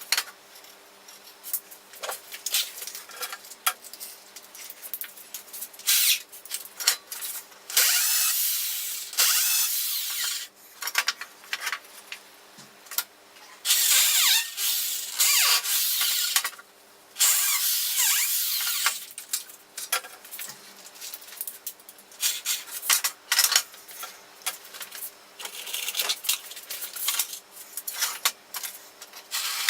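Power drill driving screws into wood in several runs of one to two seconds, between short knocks and clicks of the wood pieces being handled.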